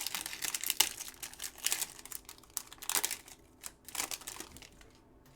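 Trading card pack wrapper crinkling and crackling in the hands, with cards being handled, in an irregular run of rustles that thins out near the end.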